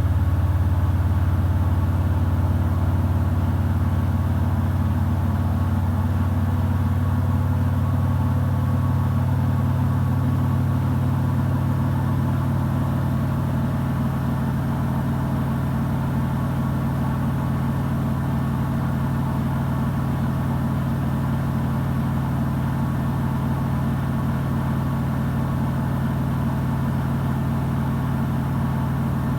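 Samsung WW90J5475FX digital inverter washing machine spinning its drum, a loud steady hum whose low pitch moves up a little about ten seconds in.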